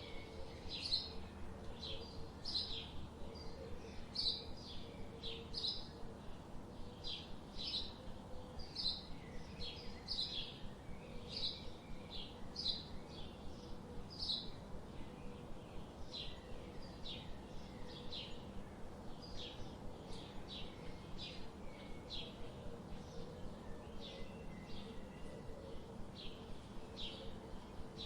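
Forest birds chirping: many short, high chirps repeating steadily, over a faint steady background hum.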